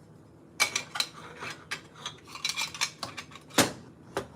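Kitchen utensils clicking and clacking in quick, irregular strokes while the last of a lemon is squeezed, with one sharp knock about three and a half seconds in.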